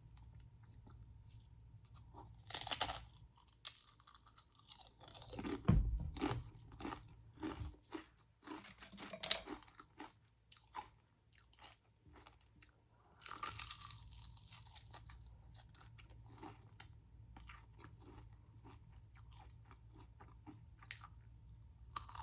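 Close-miked bites and chewing of crunchy fried street food: loud crunches come in bursts through the first half, then quieter chewing.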